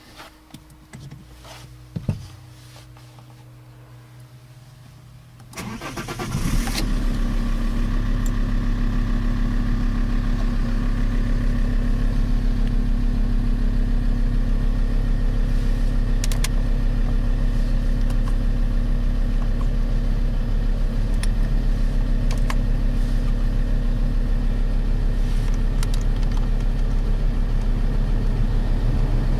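Alfa Romeo 159 2.4 JTDM five-cylinder turbodiesel being started: after a single click, the starter cranks briefly about five and a half seconds in, and the engine catches and settles into a steady idle.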